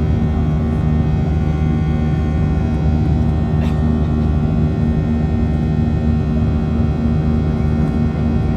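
Boeing 737-700 cabin noise from a window seat: the CFM56 jet engines running at steady power, a constant drone with several held tones over a low hum. A faint click about three and a half seconds in.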